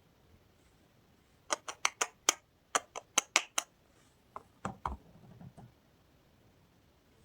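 Soap packaging being handled: a quick run of about nine crisp clicks, then a few softer taps, a dull thump and brief rustling.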